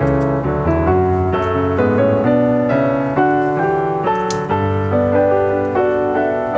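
Background piano music: a steady melody of notes over low bass notes.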